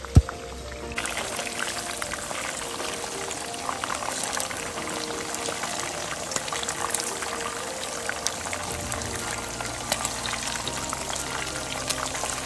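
Pork spare ribs frying in hot oil in a pan: a dense sizzle full of small crackles and pops that comes up sharply about a second in. A single sharp click sounds just before it.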